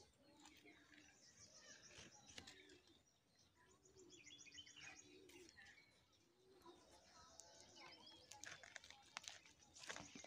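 Faint birdsong: small birds chirping and trilling, with a few sharp clicks near the end.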